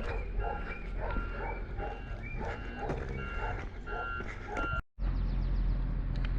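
Short electronic beeps, repeated at an uneven pace, over a steady low rumble; the sound drops out abruptly for a moment about five seconds in.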